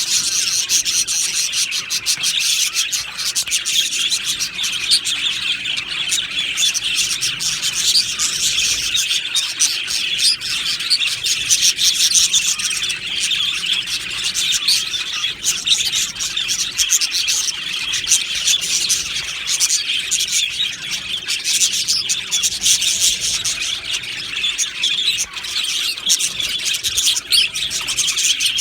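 A flock of budgerigars chattering and chirping, many birds at once in a dense, unbroken twitter.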